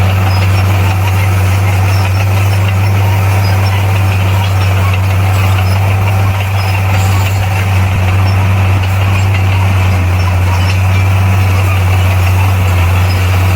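Heavy earthmoving machine's diesel engine running at a steady, unchanging speed, a loud low drone.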